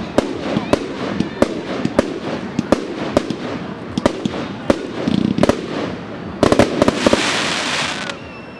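Fireworks going off: a steady run of sharp bangs and crackles, with a quick volley of rapid cracks about two-thirds of the way through, then a loud hiss for about a second near the end.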